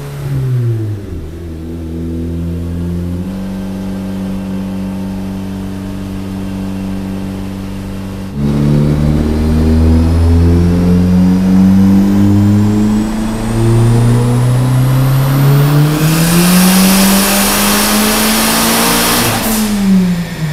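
Volkswagen Jetta MK4's big-turbo 1.8T four-cylinder on a chassis dyno, running a full-throttle pull. It holds at low revs, then about eight seconds in jumps louder and climbs steadily in pitch with a high whine rising above it and a loud hiss over the last few seconds. Near the end it lifts off and the revs fall away.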